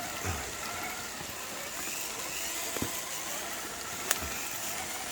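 Electric motors and gear drivetrains of RC rock crawler trucks whining at low speed over a steady hiss, with two sharp clicks about three and four seconds in.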